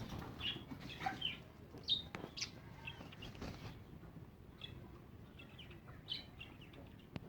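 Backyard chickens calling: scattered short, high chirps and occasional clucks, with a few light clicks.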